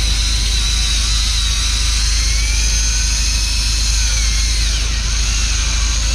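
Electric fishing reel motor whining as it winds in a hooked fish, its pitch slowly rising and falling with the load, over the steady low rumble of the boat's engine.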